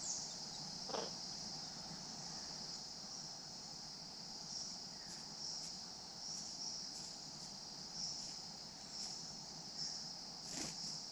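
Steady high-pitched rainforest insect chorus, swelling and fading in a slow pulse about once a second. A brief sharper sound comes about a second in, and another near the end.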